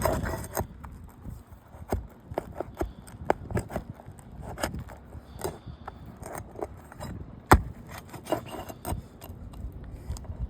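Irregular clicks, light knocks and scrapes of hard objects being handled, with one sharp knock about seven and a half seconds in.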